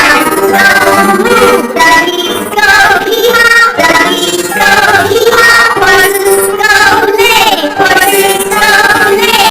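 Children's song with high, electronically altered singing over a music backing.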